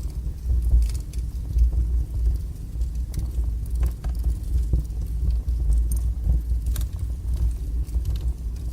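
Wood fire burning strongly in a fireplace: a steady low rumble of the flames with scattered sharp crackles and pops, a couple of them louder about six and seven seconds in.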